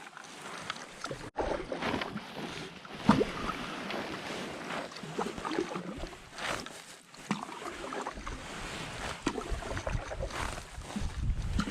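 Canoe being paddled: irregular water splashes and knocks from the paddle and hull. From about two-thirds of the way in, wind buffets the microphone with a low rumble.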